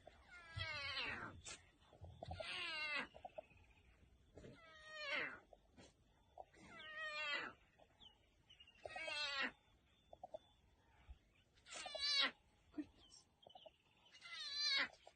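A cat meowing over and over: about seven drawn-out meows, one roughly every two seconds.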